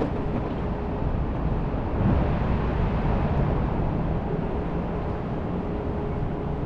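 Steady low rumble of city street noise, with a faint steady hum in the second half.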